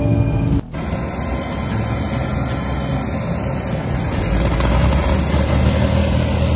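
Music cuts off abruptly; then the steady rumble and high hiss of jet engines running, with a deeper steady hum coming in about four seconds in.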